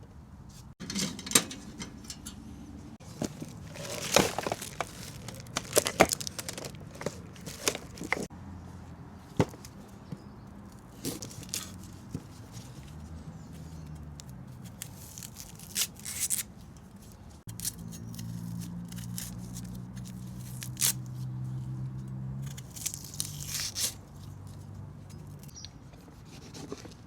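Irregular clicks, knocks and rustling from handling things by hand, with a tearing or crinkling sound like packaging being opened. A faint low hum comes in about two-thirds of the way through.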